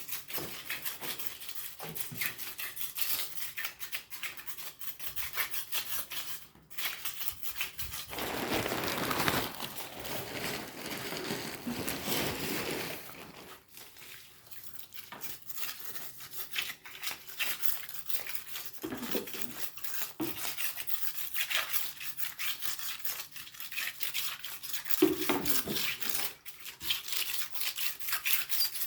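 Rapid, repeated scraping strokes of a tool over a hard surface, scraping off stuck-on material, with a longer continuous scrape about a third of the way in.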